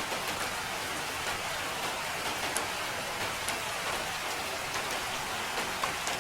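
Steady rain falling on a surface, an even patter with a few sharper single drops standing out.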